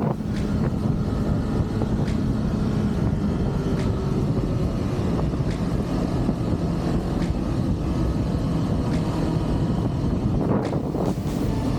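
Kawasaki Ninja 400's parallel-twin engine running steadily through its stock exhaust while riding, mixed with wind noise on the microphone. The engine note shifts near the end.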